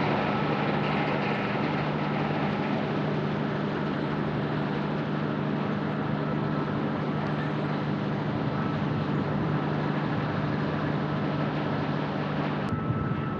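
A steady, loud mechanical rumble with a constant high whine over it, which changes abruptly near the end.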